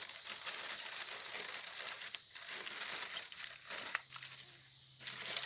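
Aluminum foil crinkling and rustling in irregular bursts as it is handled.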